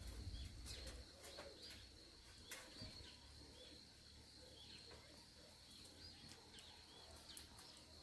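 Near silence, with faint, scattered short bird chirps and a faint steady high-pitched tone in the background.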